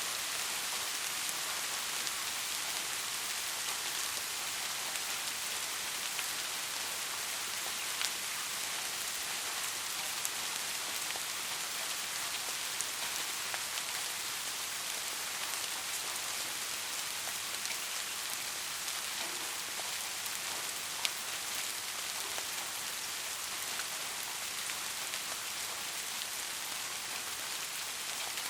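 Steady rain falling on a surface, an even hiss with the odd sharper drop ticking through it.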